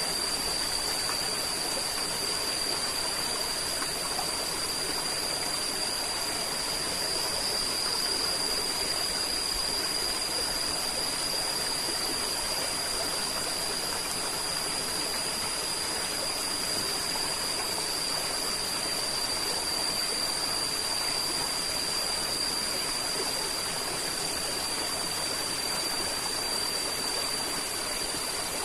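River water flowing steadily, with a thin, steady high tone running over it.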